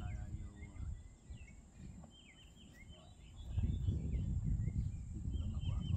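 Wild birds chirping in short notes that fall in pitch, over a steady high insect hum. About halfway through, a low rumbling noise comes in and becomes the loudest sound.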